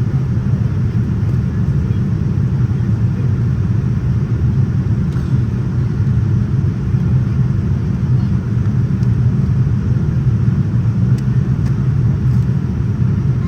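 Steady low rumble of cabin noise inside a Boeing 787-9 airliner in flight: airflow over the fuselage and engine noise, heard from a passenger seat.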